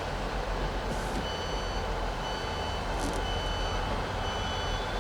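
Electronic warning beeper sounding steady half-second beeps about once a second, starting about a second in, over a steady low rumble. Two short high hisses come near the start and the middle.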